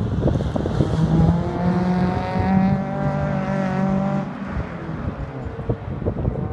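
Car engine under hard acceleration on an autocross run, its note climbing in steps with short breaks between them. The engine note fades away about four seconds in.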